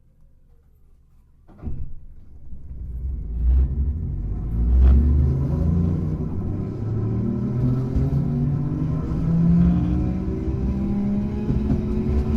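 Hankai Tramway car 351 pulling away from a stop: a knock about one and a half seconds in, then the rumble of the wheels and the whine of the traction motors and gears rising steadily in pitch as the tram accelerates.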